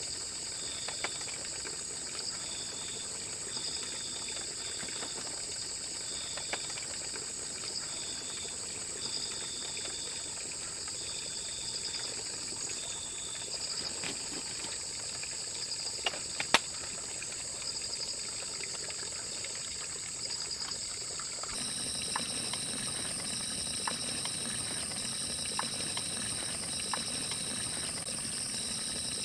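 Steady outdoor ambience of insects chirring in high, pulsing tones, with scattered small clicks and a soft trickling; the background changes abruptly about three-quarters of the way through, as at an edit.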